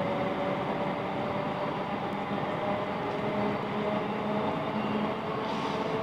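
South Western Railway Class 707 Desiro City electric multiple unit running between stations: a steady rolling noise of wheels on rail with a few faint steady traction motor tones.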